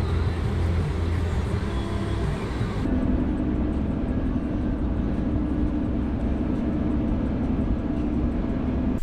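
Steady engine and road noise inside a moving vehicle. About three seconds in, the hiss drops away and a steady low drone carries on.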